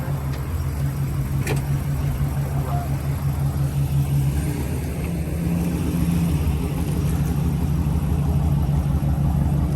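Motor vehicle's engine running steadily with a low hum; its pitch steps up slightly about five seconds in.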